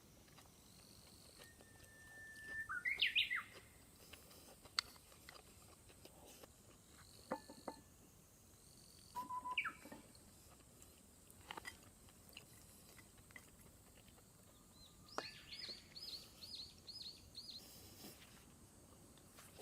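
Birds calling: several separate whistled notes and chirps, the loudest about three seconds in, and a quick run of about eight high notes near the end. A few faint clicks come in between.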